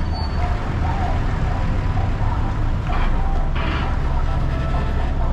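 Steady low engine drone and road noise of a bus, heard from inside, with two short rushing noises about three seconds in.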